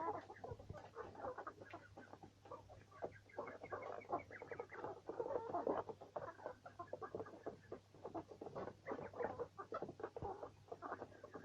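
A flock of chickens clucking, with many short overlapping calls.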